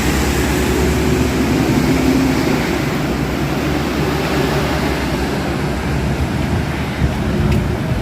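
Highway traffic in heavy rain: a vehicle's engine drone over a steady hiss of rain and wet road noise.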